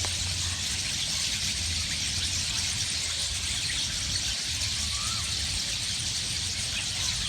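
A large flock of small birds chirping together in a tree, a dense constant chatter, with a short rising-then-falling whistled call about five seconds in and again near the end, over a low rumble.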